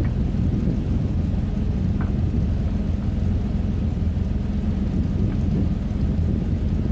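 Truck engine running steadily, a low even rumble, with a couple of faint ticks.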